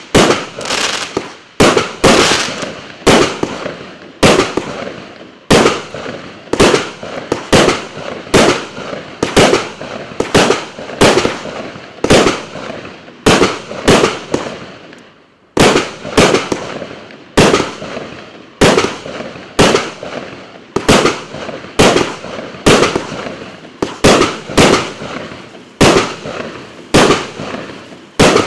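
Klásek C20025F/C 'Fireworks Show 200' cake, 200 shots of 25 mm calibre, firing in a rapid steady sequence. Its sharp reports come about one and a half to two a second, each fading quickly, with a brief pause about halfway through.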